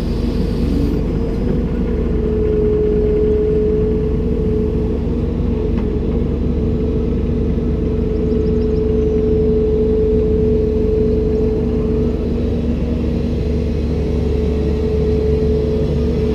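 Komatsu PC290-10 excavator's diesel engine running steadily under load, with a steady whine held over the engine's low rumble.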